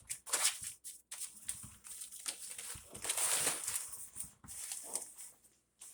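A Chihuahua playing with a cat toy: irregular scuffling and rustling noises coming in short uneven bouts, with no barking.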